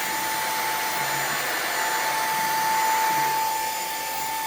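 XREXS cordless handheld vacuum running on its higher, second speed: a steady rush of air with a constant whine, swelling slightly about three seconds in.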